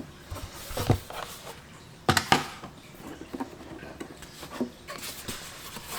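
A SRAM GX AXS upgrade kit box being opened and its contents handled: a few sharp knocks and clatters with rustling, the loudest just after two seconds in.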